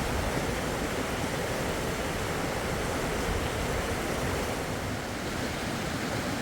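Steady rushing of a fast-flowing river, an even roar of water with no breaks.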